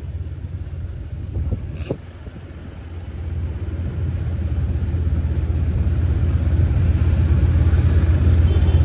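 A motor vehicle's engine running with a steady low rumble, growing louder about a third of the way in.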